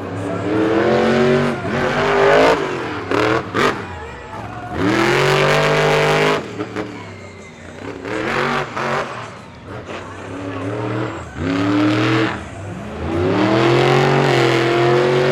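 Monster truck engine revving hard in repeated surges, its pitch climbing and dropping with the throttle. Two sharp cracks sound about three seconds in.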